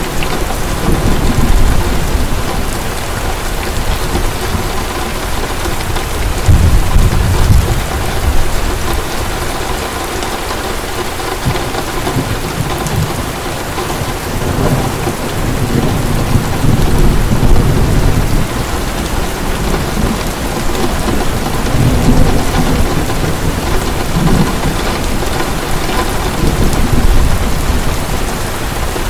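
Heavy rain pouring steadily, with low rolls of thunder swelling and fading several times.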